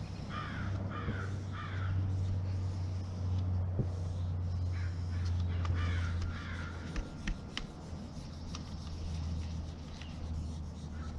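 Bird calls: a run of three about half a second in, then more between five and six and a half seconds, over a steady low hum.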